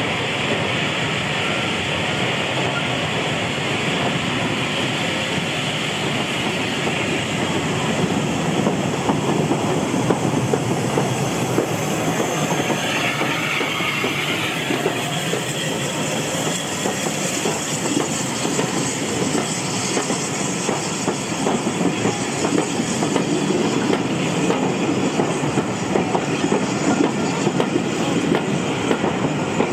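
Steam-hauled train running along the track: a steady rush of wheel and rail noise that grows a little louder in the second half.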